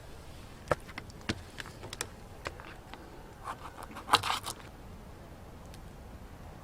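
Light clicks and knocks of objects being handled, irregular at first, then a short burst of clattering about four seconds in.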